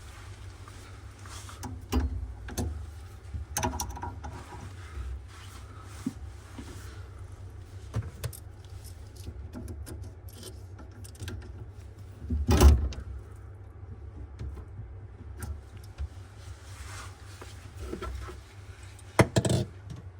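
Scattered clinks and knocks of hand tools and fittings being handled, over a steady low hum. The loudest knock comes about halfway through, and two more come close together near the end.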